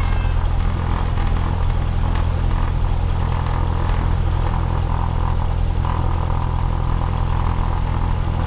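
Cessna 172R's four-cylinder Lycoming engine and propeller running steadily, a constant low drone.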